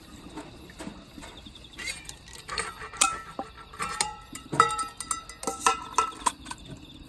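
Metal cookware and utensils being handled: a run of light knocks and clinks, several ringing briefly, busiest in the middle.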